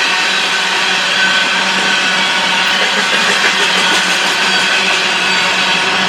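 BNSF freight train passing: the steady noise of train cars rolling on the rails, without break.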